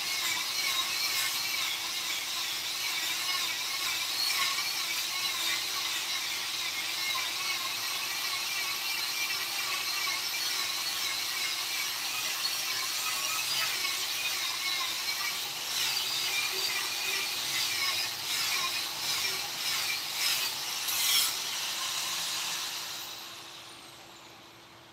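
High-speed electric rotary carving tool grinding wood, its whine wavering up and down with the load. A few sharper scrapes come near the end, then it is switched off and winds down.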